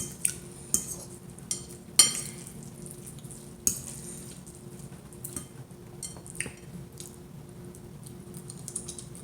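Fork clinking and scraping on a plate of shrimp Alfredo pasta, with eating sounds: a handful of sharp clicks, the loudest about two seconds in, over a faint steady hum.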